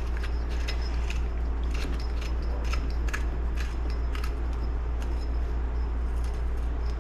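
Light metallic clicks and clinks as the clutch hub retainer nut and lock washer are fitted and the nut is threaded on by hand, a few clicks a second, thinning out after about four and a half seconds. A steady low hum runs underneath.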